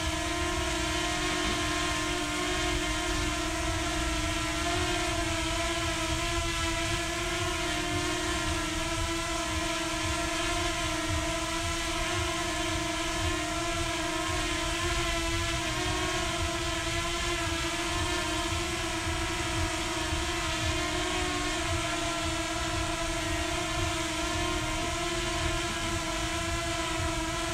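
Quadcopter drone motors and propellers in flight: a steady, high whine with several overtones, its pitch wavering slightly as the motors adjust.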